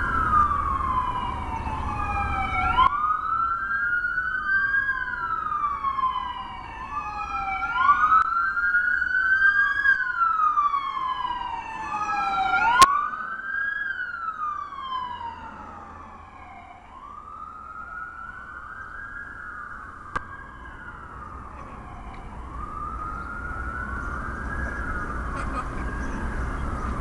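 A siren wailing, its pitch sweeping up and down about every two and a half seconds. It fades about halfway through and grows louder again near the end. A single sharp click comes about halfway through.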